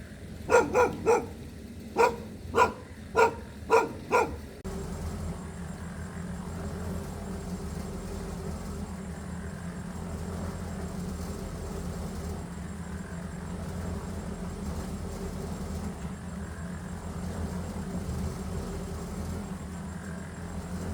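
A dog barking, about eight short barks in quick succession over the first four seconds. After that a steady low motor hum carries on.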